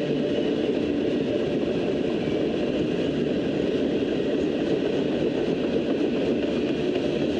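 Mixed freight train rolling past: a steady rumble of wheels on rail.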